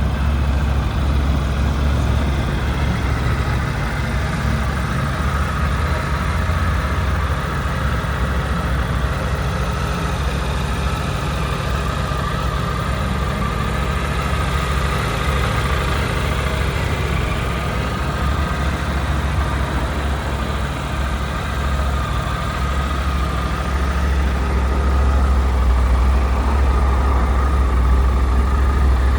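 Triumph Tiger 900 GT Pro's 888 cc inline three-cylinder engine idling steadily, a little louder in the last few seconds.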